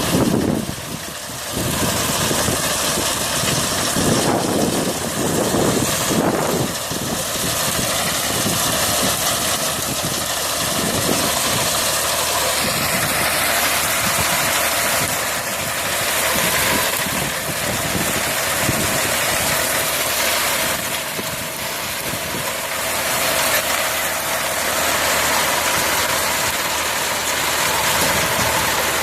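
Tractor diesel engine running steadily under a steady mechanical drone, with no break or sudden event.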